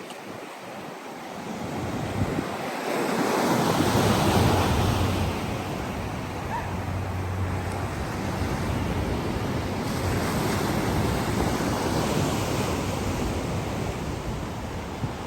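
Black Sea surf: a wave breaking and washing up the shore, loudest about four seconds in, then a steady wash of water, with some wind buffeting the microphone.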